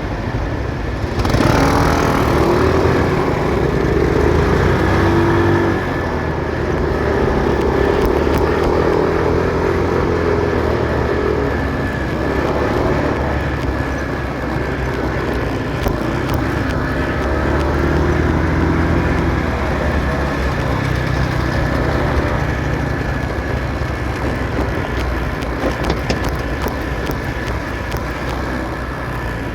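Motorcycle engine running while riding through city traffic, its pitch rising and falling in waves as the bike speeds up and slows, over steady road noise.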